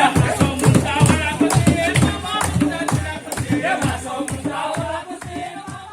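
Siddi Dhamaami dance music: drums beaten in a fast, steady rhythm under group singing, fading out over the last few seconds.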